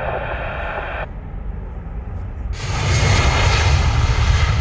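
A jet airliner's engines come in abruptly about two and a half seconds in: a loud wide hiss with a steady whine over a deep rumble. Before that, the first second holds the thin hiss of an airband radio between transmissions.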